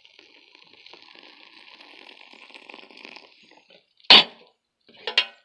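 Water pouring steadily from a kettle into a freeze-dried meal pouch for a little under four seconds. Then a single short, loud sound comes about four seconds in, followed by a few faint clicks near the end.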